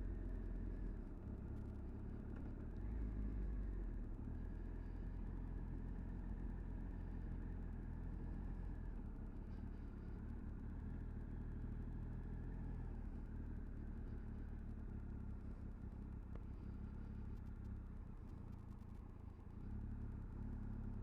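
Low, steady rumble of a Triumph Tiger 1200 motorcycle being ridden, engine and road noise mixed with wind on the camera, dipping and then rising slightly near the end.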